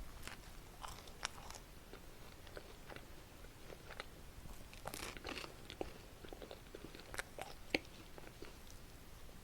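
Close-miked eating of a crisp chocolate waffle: irregular crunchy bites and chewing crackles, busiest about halfway through, with the sharpest single crack near the end.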